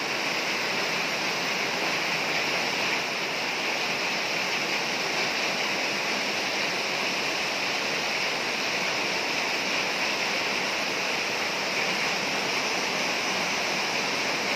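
Heavy tropical downpour splashing onto standing water on a flooded concrete path and onto garden plants, a steady, even hiss.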